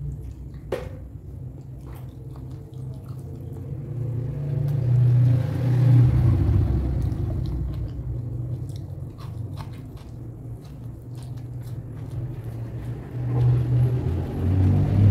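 A person chewing raw lalapan close to the microphone: a low rumble that swells and fades with the chewing, with scattered sharp clicks.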